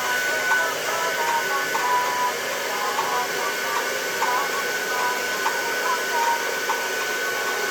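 Handheld hair dryer blowing steadily, with a thin, steady high whine; faint music with singing underneath.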